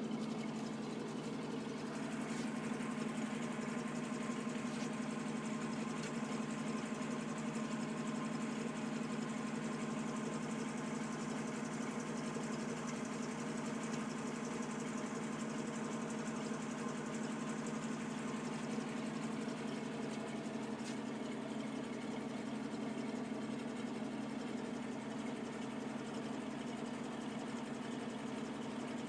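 Toyota Land Cruiser FJ40's F-series inline-six petrol engine idling steadily.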